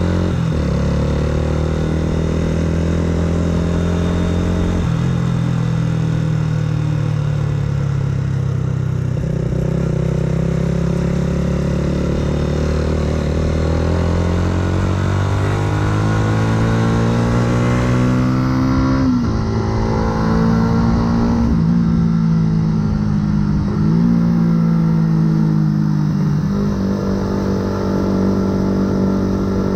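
Yamaha R125's single-cylinder four-stroke engine through a full aftermarket exhaust, under way. Its note climbs as the bike gathers speed, with sudden drops in pitch at each gear change, the biggest after a long pull about two-thirds of the way in.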